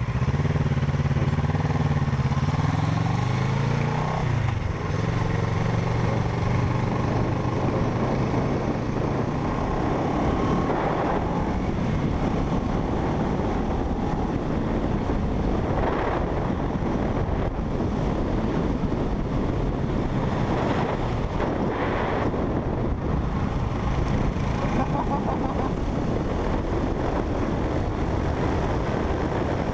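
Parallel-twin motorcycle engine accelerating, its pitch climbing over the first few seconds with a break near four seconds as it shifts up, then steady wind rush on the microphone at road speed for the rest of the ride.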